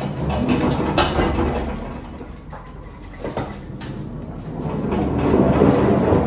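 Pallet jack wheeling a loaded pallet into place, wheels rolling and rattling under a steady low hum. There is a sharp clank about a second in and another about three and a half seconds in, and the rattling grows louder toward the end.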